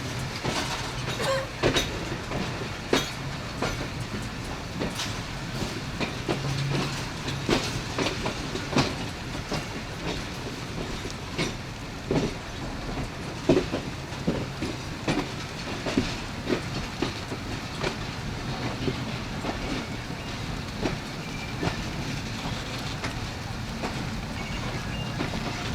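Passenger train coaches rolling past as the train arrives, the wheels clicking and knocking irregularly over rail joints against a steady rumble, the knocks thinning out in the second half.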